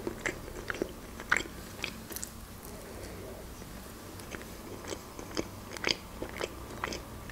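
Quiet, close-miked mouth sounds of a person chewing a bite of black bread spread with pâté, with scattered small wet clicks.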